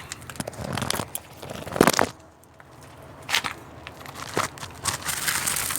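Handling noise from the phone being set in place: rustling, scraping and small knocks in several bursts, with a quieter stretch about two seconds in.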